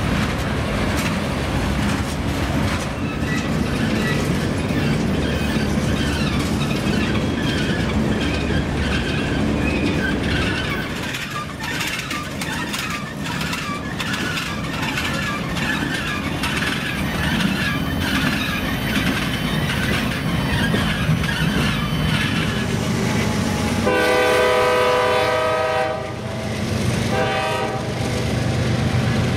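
Norfolk Southern freight train rolling by with steady wheel and rail noise. About 24 seconds in a diesel locomotive's horn sounds a long blast, then a short one, and another begins near the end.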